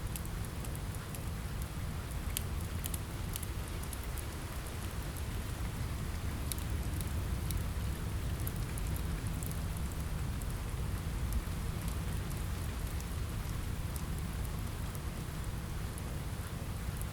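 Steady rain falling on a window, a continuous hiss over a low rumble, with scattered sharp crackles from a wood fire.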